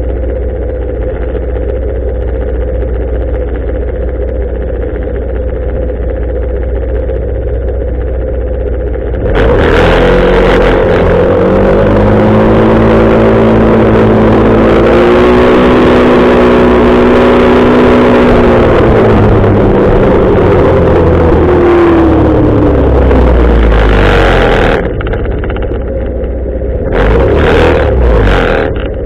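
Motorcycle engine running steadily at low speed, then about nine seconds in it opens up and pulls away, its pitch rising, holding and falling over some fifteen seconds with wind rush on the microphone, before dropping back to a low run; a short loud burst of throttle comes near the end.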